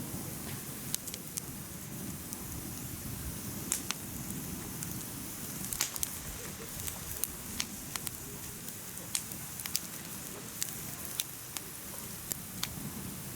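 Firewood burning in a mesh fire pit: a steady low rumble of flames with sharp, irregular crackles and pops from the burning wood.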